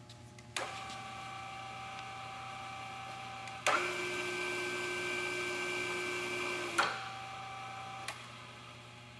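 Solberga geared-head drill press running with a steady gear whine: it starts suddenly, changes to a louder run with a different set of tones a few seconds in, drops back to the first whine, then is switched off and winds down near the end.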